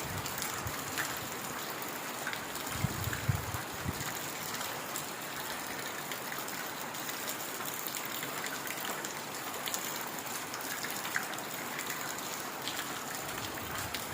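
Heavy rain falling steadily in a forest: a dense, even hiss with scattered sharp drop ticks, and a few brief low rumbles about three seconds in.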